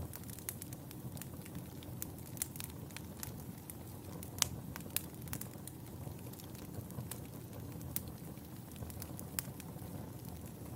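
Wood fire burning in a fireplace, crackling with irregular sharp pops and snaps over a soft steady low rustle; the loudest pop comes about four and a half seconds in.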